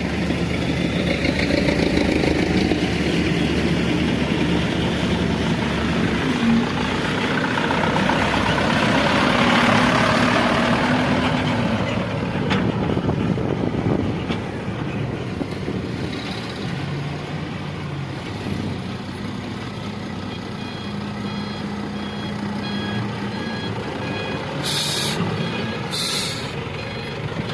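Heavy diesel truck and loader engines running under load, swelling and then easing off. From the middle on, a reversing alarm beeps repeatedly. Near the end there are two short air-brake hisses.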